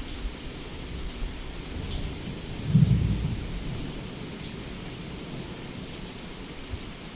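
Heavy rain pouring steadily against a window, with a thunder clap about three seconds in that rumbles low and fades away.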